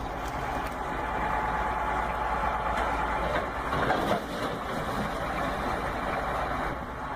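A truck engine running steadily, getting briefly louder about four seconds in.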